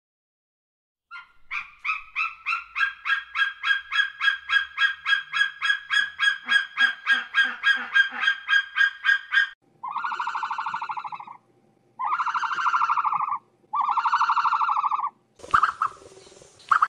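Bird calls: a fast run of short yelping notes, about four a second, for some eight seconds, then four long buzzy honks of about a second and a half each.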